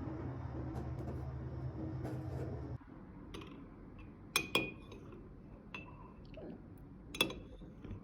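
A low steady hum, which cuts out about three seconds in, followed by a few sharp clinks of dishware. Three louder clinks each ring briefly.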